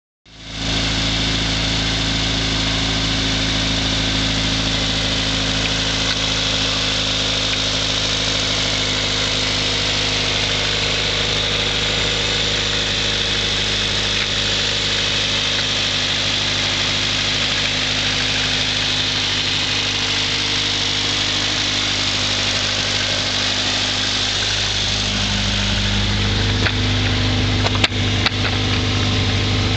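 Honda CRX's B18A1 1.8-litre four-cylinder idling steadily through a 2 1/4-inch straight-pipe exhaust with a Dynomax Super Turbo muffler. The idle steps up slightly near the end, with a couple of sharp clicks.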